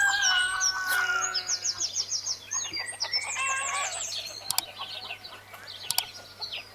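Several birds chirping and trilling at once, with quick repeated high notes and short whistles overlapping.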